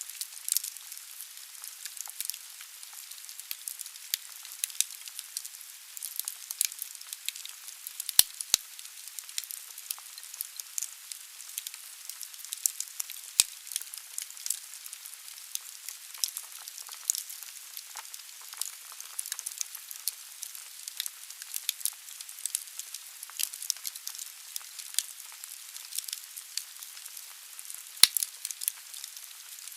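Firewood burning in a fireplace: a steady hiss with constant irregular crackling and snapping, and a few louder pops, about eight seconds in, around thirteen seconds and near the end.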